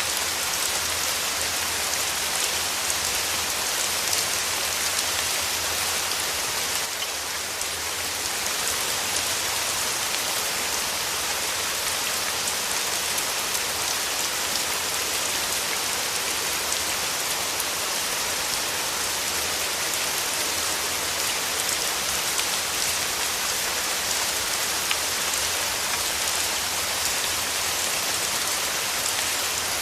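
Steady rain falling: a dense hiss with scattered crisp ticks of single drops, dipping slightly for about a second around seven seconds in.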